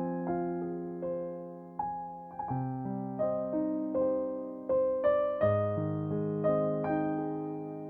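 Slow, soft piano music: single melody notes struck over held chords, each note fading after it is played.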